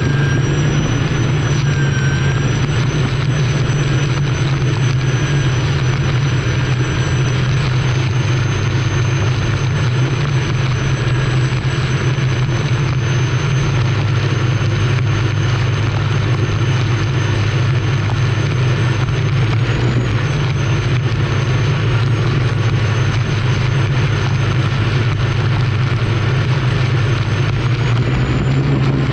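Turbine engine of an unlimited hydroplane running at racing speed, heard onboard: a steady high whine over a loud low drone, mixed with wind and water noise. The whine's pitch lifts slightly near the end.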